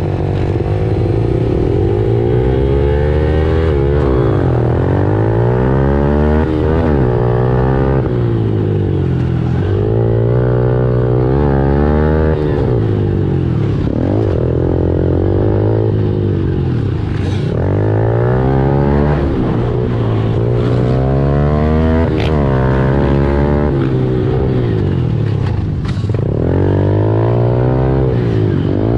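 Honda CRF110 pit bike's small single-cylinder four-stroke engine being ridden hard, its pitch climbing and dropping every few seconds as the throttle is opened and closed through the turns and jumps. A few short sharp ticks cut through now and then.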